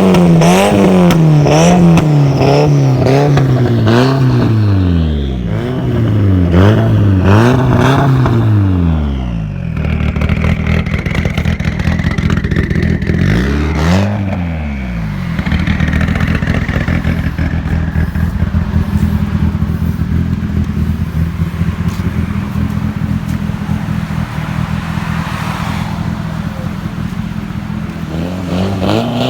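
Nissan Silvia S15's SR20 inline-four through a Tomei full titanium exhaust, revved in a string of quick blips for the first nine seconds or so, then settling to a steady idle. It is blipped once more around the middle, and revving starts again near the end.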